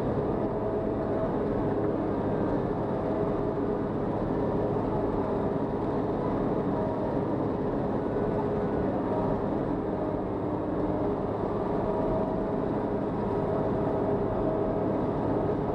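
Caterpillar 120K motor grader's diesel engine running steadily under working load, a constant hum with a few steady tones.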